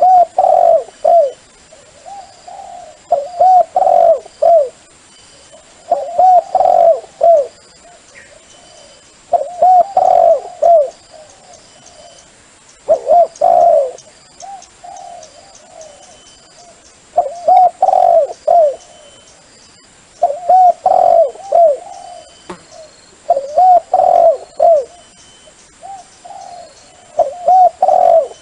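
Dove cooing: a phrase of several soft, arched coo notes repeated about every three to four seconds, nine phrases in all.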